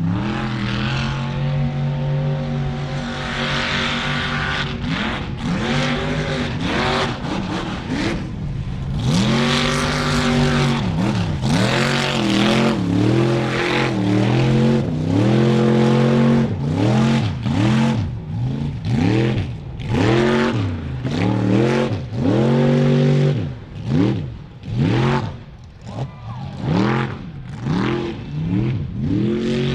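Off-road truck engine revved hard. It holds high revs for the first several seconds, then is blipped up and down again and again, about once a second, as if the truck is being rocked or worked through mud.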